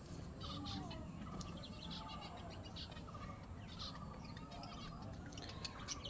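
Small aviary birds chirping faintly: many short, scattered calls and brief gliding notes.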